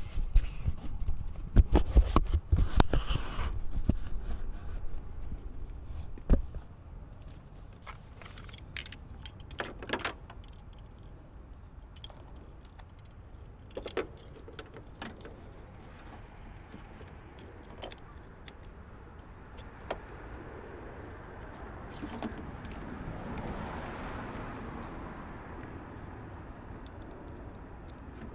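Chevy S-10 Blazer's starter trying to turn the engine over on a weak jump pack, a loud rapid clicking and struggling for a few seconds without the engine catching: the jump pack is not charged enough. A few separate clicks follow.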